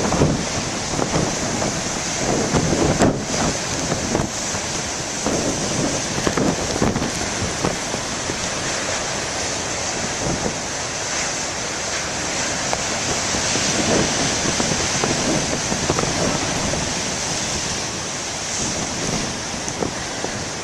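Heavy surf pounding and washing in large storm waves, with gusty wind rumbling on the microphone, the gusts strongest in the first few seconds.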